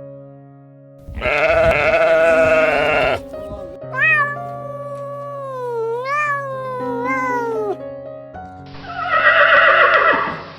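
Goats bleating over steady background music: a loud, wavering bleat about a second in and another near the end. Between them is a longer, smoother call whose pitch slides up and down several times.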